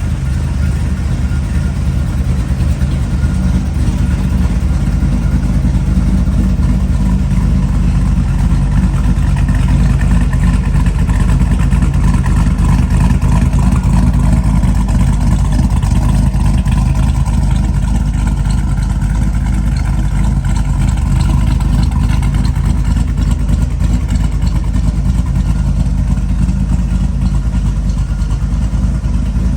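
1955 Chevrolet Bel Air's engine running steadily.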